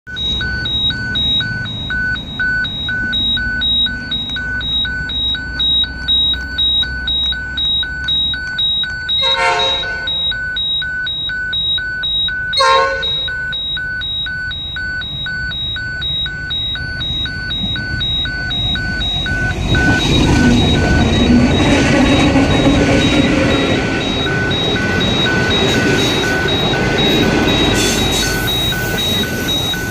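Level crossing warning bells beeping in a fast, steady pulse while an approaching train sounds two short horn toots about three seconds apart. From about twenty seconds in, the train passes with a louder rumble of wheels on rail, the bells still beeping.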